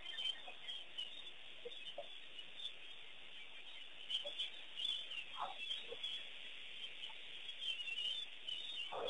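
Wild birds calling in the bush: a steady chatter of small high chirps with a few short, louder calls scattered through.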